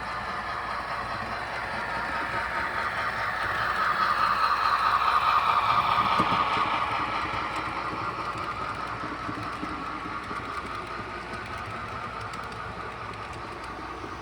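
Model train running along the layout's track, its motor and wheels growing louder as it comes past, peaking about five to six seconds in, then fading away.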